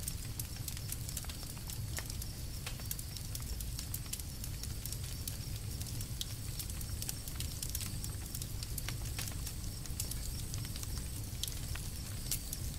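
Campfire crackling: frequent irregular sharp snaps and pops over a steady low rumble.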